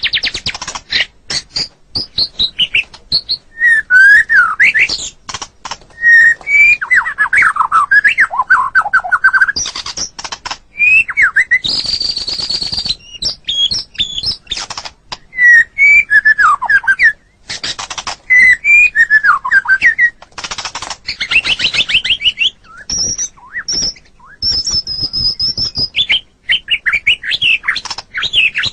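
White-rumped shama (murai batu) singing a long, varied song. Loud whistled phrases that glide up and down are mixed with rapid runs of sharp, clicking chatter notes and a buzzy trill.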